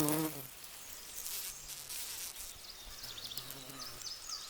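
Bumblebee wings buzzing close by as it forages at comfrey flowers: a steady hum that stops about half a second in, then comes back fainter and lower around three seconds in. Short high chirps repeat near the end.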